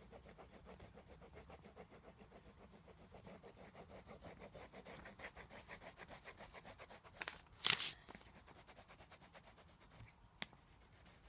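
Rapid, even back-and-forth colouring strokes rubbing on paper, shading in an area, with one louder scrape about two-thirds of the way through.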